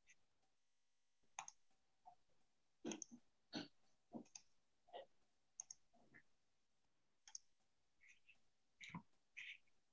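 Faint, irregular clicking of a computer mouse and keyboard, about fifteen clicks at uneven intervals.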